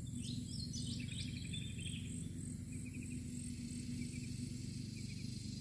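Outdoor ambience with insects chirping in an even pulsing rhythm, about three pulses a second, and a few short higher chirps in the first second or so, over a steady low background hum.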